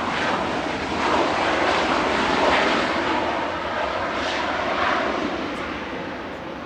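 Jet airliner's engines passing close by: a loud, steady rush that fades after about four and a half seconds.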